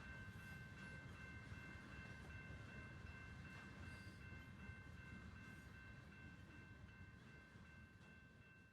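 Faint low rumble of a freight train rolling past, with a steady high-pitched whine held over it, fading out near the end.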